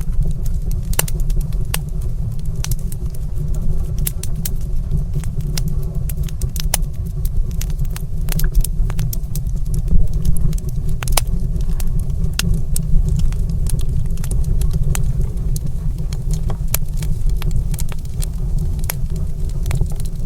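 Wood fire crackling in a stone fireplace: irregular sharp pops and snaps over a steady low rumble.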